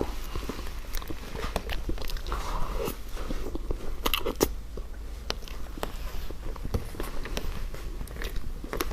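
Close-miked eating: a person biting and chewing food, with many irregular sharp, crisp clicks.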